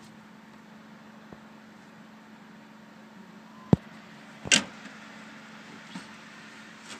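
Old Sanyo through-wall hotel air conditioner running on heat, its fan blowing steadily with a low hum. A little past halfway there are two sharp, loud clicks about a second apart, then a couple of fainter ticks.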